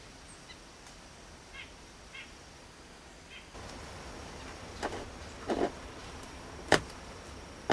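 A few faint, short bird chirps in the woods, followed in the second half by several knocks and rustles, the sharpest and loudest about two-thirds of the way in.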